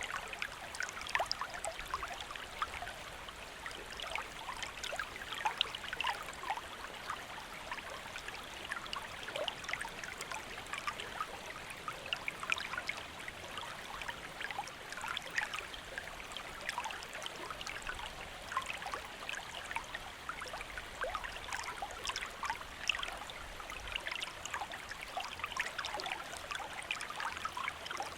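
A small river or stream flowing steadily, a continuous rush of water with many small splashes and trickles.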